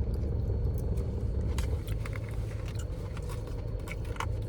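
Light clicks and taps of food being handled and eaten over a steady low rumble, which eases a little about two seconds in.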